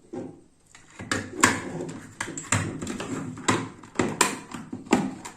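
Plastic cover of an extension box being fitted back onto its base by hand: a string of irregular clicks and knocks as the parts are handled and pressed together.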